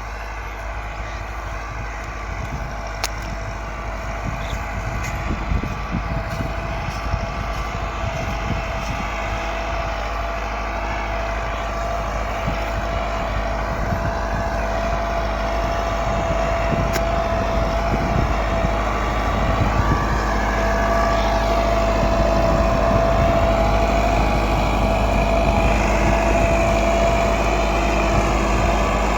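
Massey Ferguson 375 tractor's diesel engine running steadily under load while pulling a disc harrow, growing gradually louder.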